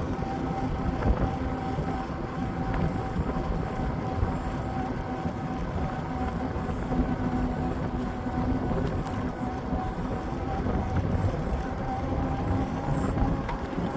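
Wind buffeting the microphone on a moving bike, with a steady hum running underneath.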